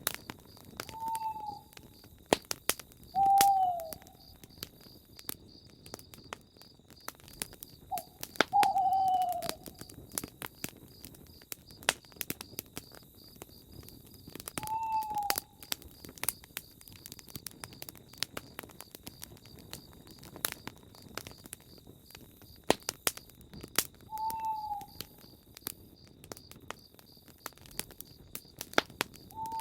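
Campfire crackling with frequent sharp pops, while a bird, owl-like, calls a short, slightly falling hoot-like note every few seconds, about six times.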